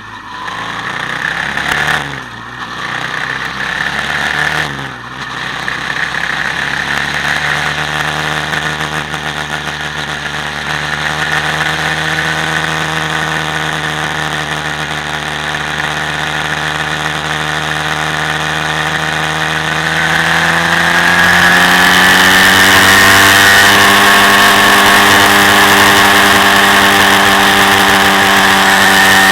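Quad bike engine running under way. It dips briefly three times in the first five seconds, then climbs slowly and steadily in pitch, and about two-thirds of the way through it rises sharply in pitch and loudness and holds there.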